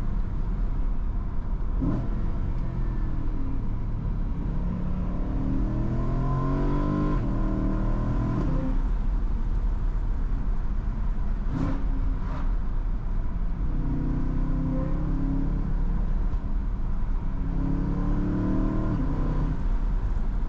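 BMW M3's V8 engine pulling under acceleration on the road, its note rising in pitch several times and dropping back between pulls, over steady road rumble. A few short clicks sound about two seconds in and again past the middle.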